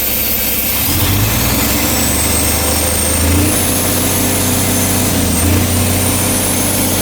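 Mack MP8 inline-six diesel engine running on a test, revved up about a second in and held at raised speed, with a high whine that climbs with the revs, holds, and dips briefly once.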